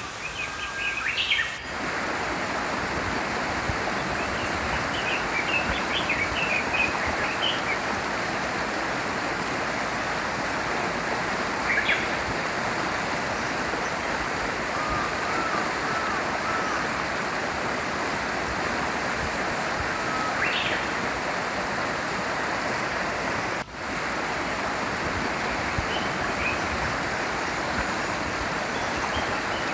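A small stream flowing with a steady rush, with small birds chirping in short scattered bursts over it.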